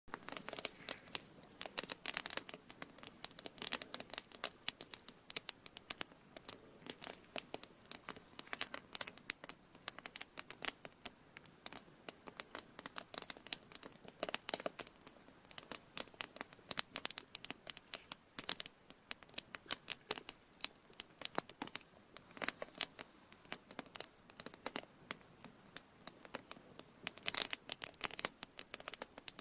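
Wood fire crackling: irregular sharp pops and snaps, some in quick clusters, over a faint low hiss.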